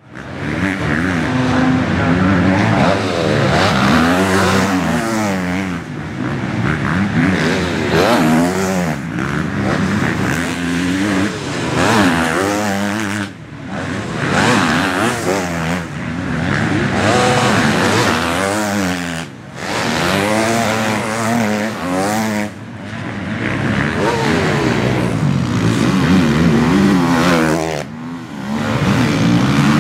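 Several motocross bikes racing, their engines revving hard with the pitch climbing and dropping again and again through gear changes and throttle blips, the sounds overlapping. The sound breaks off briefly a few times before picking up again.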